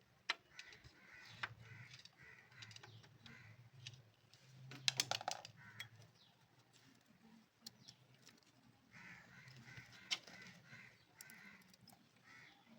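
Faint metallic clinks of hand tools on engine parts, loudest in a quick cluster about five seconds in, while a bird calls repeatedly in runs of short harsh calls in the background.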